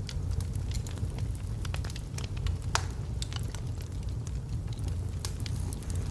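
Logs burning in a fireplace: a steady low rumble of the flames with frequent small crackles and pops, one sharper pop a little before the middle.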